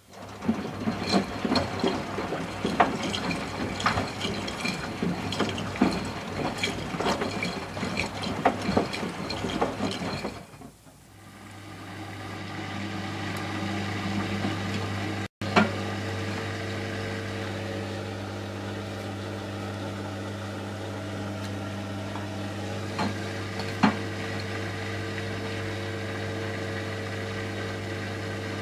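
Miele Softtronic W 435 washing machine mid-cycle: for about ten seconds the drum turns the wet load with irregular sloshing and clatter, then stops. About a second later a steady machine hum starts and runs on.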